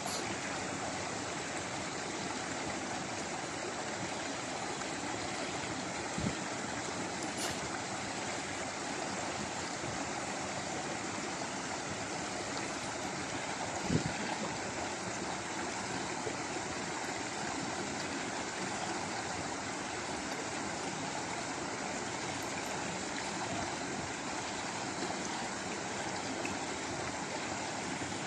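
Stream water flowing and rushing in a steady, even wash, with two brief low thumps, about six seconds in and about fourteen seconds in.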